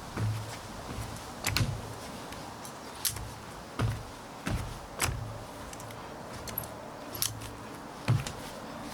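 Metal clinks and knocks of a two-person camping cot being assembled, its frame parts clicking and snapping together about ten times at irregular intervals, over a steady background hiss.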